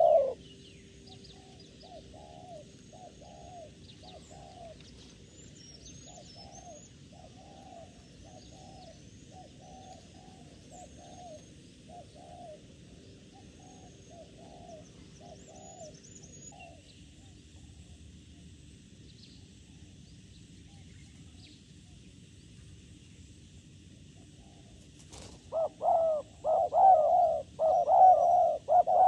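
Doves cooing: a faint string of short repeated coos through the first half, then loud, close cooing starting about four seconds before the end. Thin high chirps of small birds sound over the first half.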